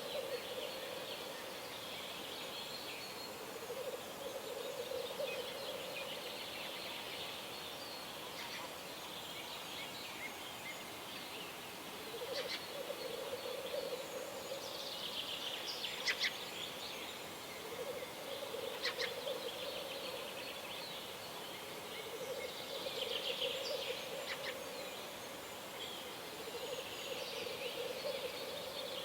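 Birds singing at dawn: a low bubbling call repeated every few seconds, each lasting a second or two, under higher, busier songbird song with a few sharp notes.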